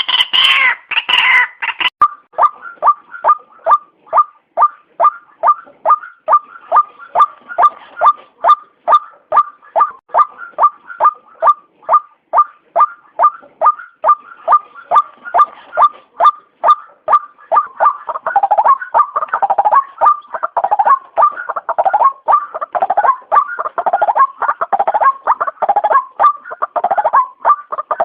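White-breasted waterhen (ruak-ruak) calling: a harsh, rapid burst first, then a long run of short, even calls at about three a second, which turn thicker and more ragged about two-thirds of the way through.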